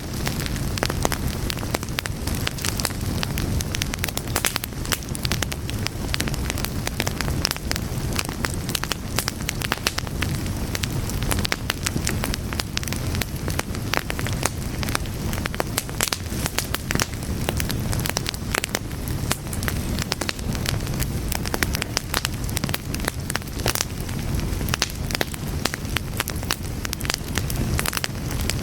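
Fire crackling steadily: dense, irregular pops and snaps over a low, steady rumble of flame.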